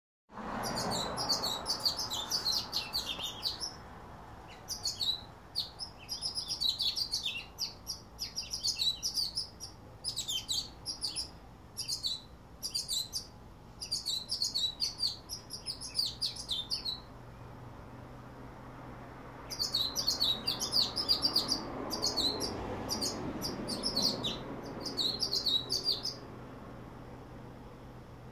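Two pet birds chirping in quick, dense runs of high chirps, with a pause of about two seconds past the middle before they start up again.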